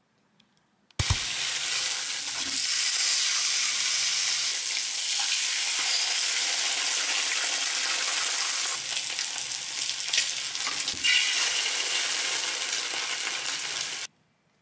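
An egg and slices of pork belly frying in a frying pan, sizzling with a steady hiss that starts suddenly about a second in and stops abruptly near the end.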